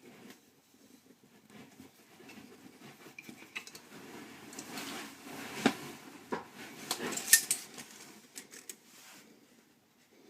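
Hard objects being handled, clattering and clinking in an irregular run of knocks, with two sharper clinks around the middle.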